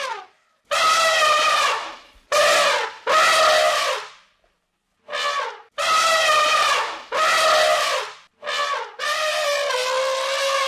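Elephant trumpeting: a series of about seven loud trumpet calls, most about a second long with short silent gaps between them; the last call is held longer and runs on past the end.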